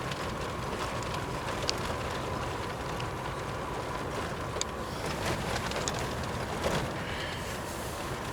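Steady road and engine noise of a moving car, heard from inside the cabin, with a few light clicks and knocks scattered through.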